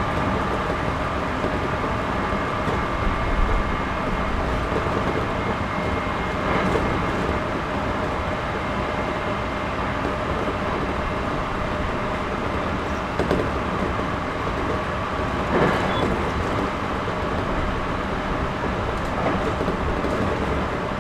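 Inside the cabin of a JR Series 211-5000 electric multiple unit running at speed: a steady rumble of wheels on rail with a steady whine, and a few sharp knocks scattered through it.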